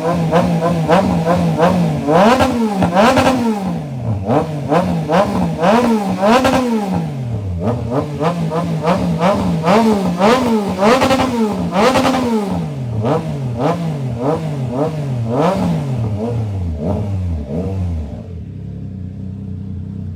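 Triumph Trident 660's inline three-cylinder engine, through an aftermarket full exhaust system, being revved repeatedly: the pitch climbs and drops about once a second, with a few short holds. It settles to a steady idle about two seconds before the end.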